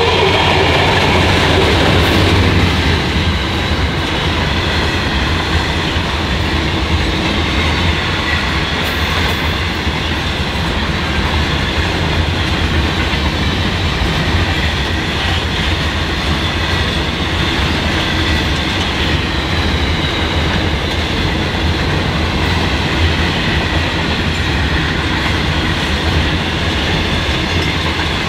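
Empty grain train passing close by: the 81 class diesel-electric locomotive's engine is loudest in the first few seconds, then a long string of empty grain hopper wagons runs past steadily.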